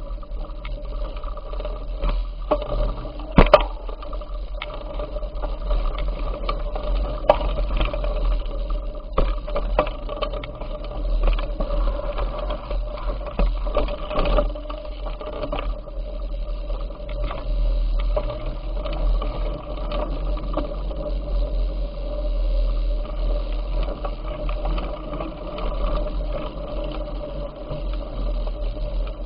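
Bicycle being ridden: a steady low rumble with a continuous rattle and small clicks, and a sharp knock about three and a half seconds in.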